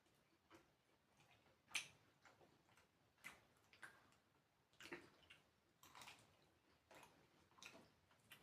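Faint mouth sounds of someone eating: soft clicks and smacks of chewing, roughly one a second, the loudest about two seconds in.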